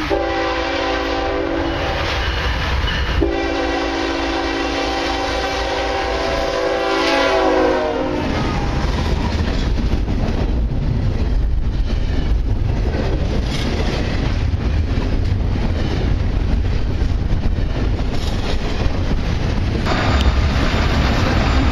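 CSX freight locomotive's air horn sounding two long blasts at a grade crossing, the second dropping in pitch as the locomotive passes. Then a long double-stack intermodal train of container well cars rumbles and clatters steadily past close by.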